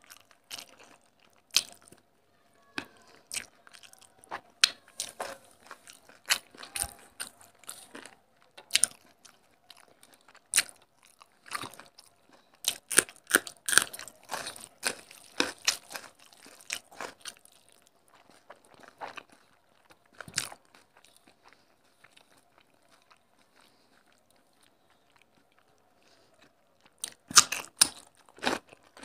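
Close-miked eating: a person chewing mouthfuls of rice and curry eaten by hand, with crisp crunching and sharp mouth clicks in irregular clusters. A quiet stretch of several seconds is followed by a loud burst of crunching near the end.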